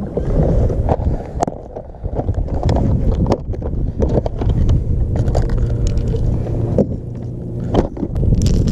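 Wind rumbling on the microphone aboard a kayak on open water, with scattered sharp clicks and knocks throughout.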